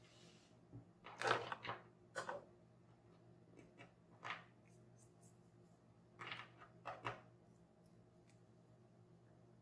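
Hands handling toys and packaging: six or so short scraping, rustling sounds in the first seven seconds, the loudest about a second in, then only a faint steady hum.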